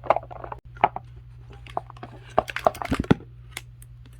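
Parts of a furnace inducer blower motor being handled and taken apart by hand: a string of sharp clicks and knocks, busiest about two and a half to three seconds in, over a steady low hum.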